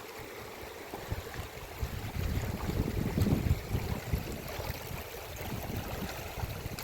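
Rainstorm noise: wind gusting against the microphone in uneven surges, stronger from about two seconds in, over a steady rushing hiss of heavy rain and running water.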